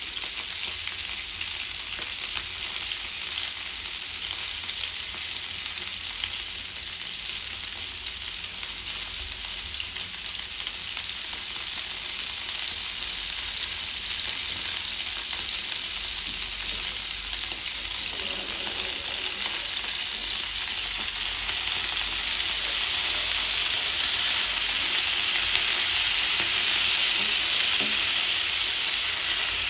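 Chopped green vegetables sizzling in a nonstick frying pan: a steady frying hiss that grows louder over the last third. Near the end a silicone spatula stirs them.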